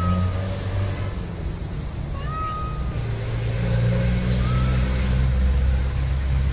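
A cat meowing in short calls about every two seconds, over a steady low rumble.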